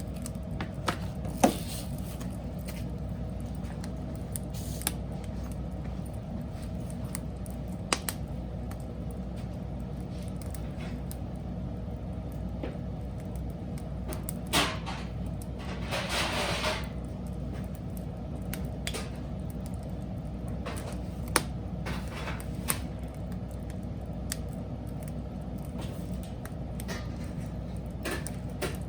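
Wood fire burning with a steady low roar, broken by scattered sharp crackles and pops, and a short hiss about halfway through.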